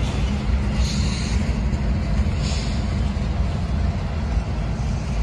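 Freight train's covered hopper cars rolling past: a steady low rumble of steel wheels on the rails, with two brief higher-pitched sounds about one and two and a half seconds in.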